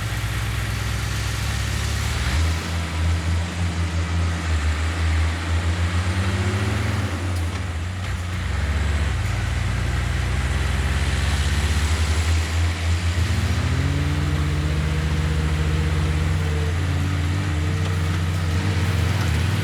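Heavy diesel engine of earthmoving machinery running, its pitch rising twice as it is revved, with a fast throbbing pulse at times.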